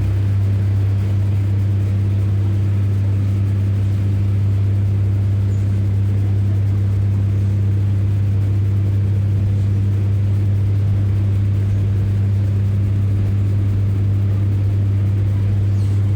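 Ex-Northern Class 144 Pacer diesel railbus, its engine giving a loud, steady low drone at an even pitch.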